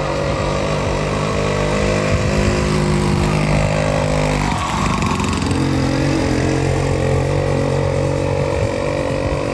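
Small 50cc moped engine running steadily; about halfway through its pitch dips and then climbs back up.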